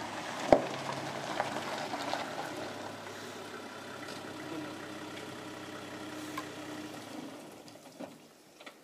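A vehicle engine idling steadily, fading away near the end. A single sharp knock about half a second in.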